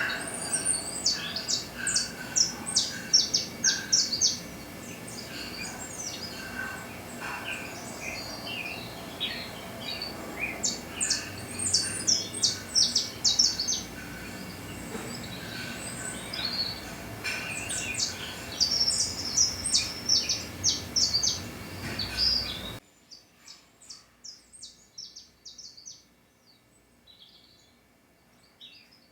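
Small birds chirping in quick runs of short, high notes over a steady background hiss. About three quarters of the way through, the hiss and the overall level drop suddenly, and fainter chirps carry on.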